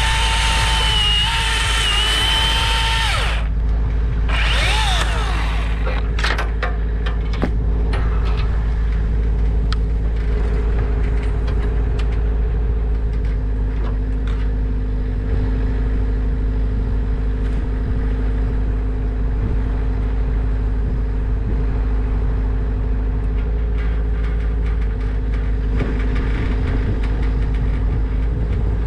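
An engine running steadily throughout, with a strong low drone. A loud, high whine lasts about three seconds at the start, a shorter one falling in pitch comes about five seconds in, and a scatter of knocks follows.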